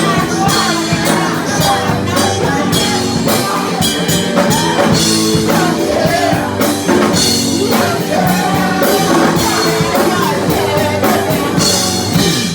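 Live rock band playing with singing and a drum kit; the music stops abruptly at the very end.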